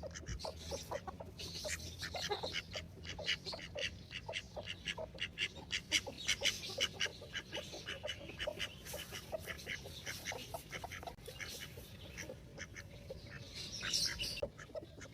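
Free-range chickens, hens with their chicks, calling in a busy run of short clucks and peeps. The calls are densest midway, with a louder call near the end.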